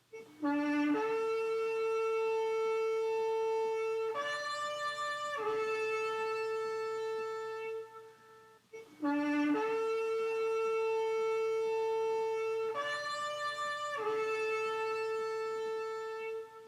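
A shofar (ram's horn) blown in two long calls. Each call opens with a short low note, then holds a long, higher note that steps up in pitch for about a second and falls back before ending.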